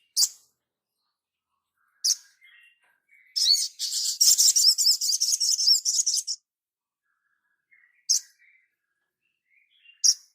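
Recorded bird song played as a training track for cage birds: single sharp, high calls about two and six seconds apart, and in the middle a rapid, high-pitched chattering trill lasting about three seconds.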